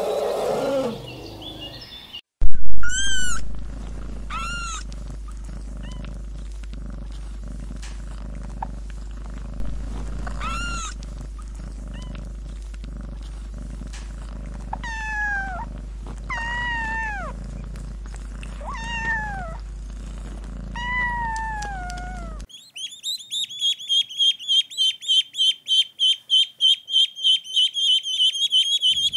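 An elephant's call fades out in the first two seconds. Newborn kittens then mew about a dozen times, each mew a falling cry, over a low steady hum; the first mew is the loudest. Near the end a flock of ducklings peep rapidly and high, about three peeps a second.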